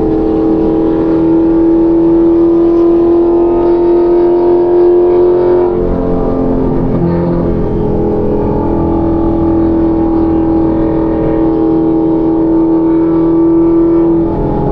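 Car driving at a steady speed, heard as a steady droning tone with a noise bed beneath it; the drone changes pitch about six seconds in and again near the end.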